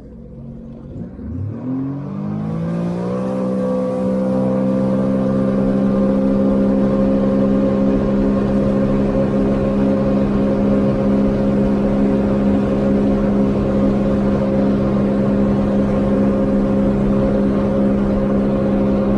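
Sea-Doo GTI 130 jet ski's three-cylinder engine on a full-throttle acceleration run: the pitch climbs quickly for about two seconds from low speed, then holds a steady high-rpm note at top speed.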